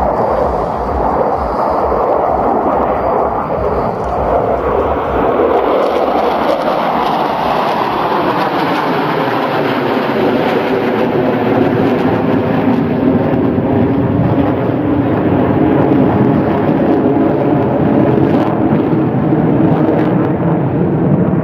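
Loud, continuous jet engine noise from Su-27 fighters of the display team flying past, its tone sliding slowly as they pass.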